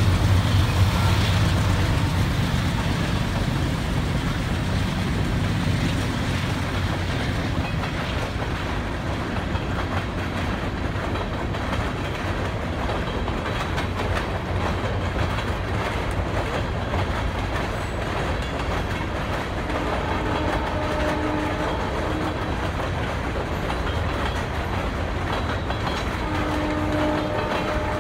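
BNSF diesel freight locomotive passing, its engine a low drone that fades over the first several seconds, then freight cars rolling by with a steady rumble and clickety-clack of wheels on rail. A faint brief whine comes twice in the last several seconds.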